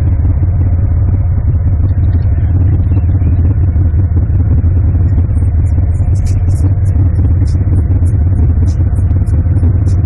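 A car on the move, with a steady, loud, low rumble of engine and road noise. Faint short high ticks come in over the second half.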